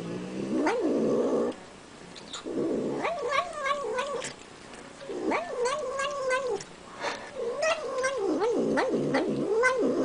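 Domestic cat making a wavering, moaning vocal sound while eating, in four bouts of one to three seconds each, with short sharp clicks between.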